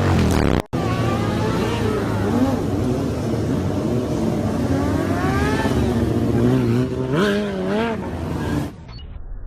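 Motor vehicle engine revving up and down again and again, its pitch rising and falling in repeated sweeps. It cuts out briefly just under a second in, and the sound drops away near the end.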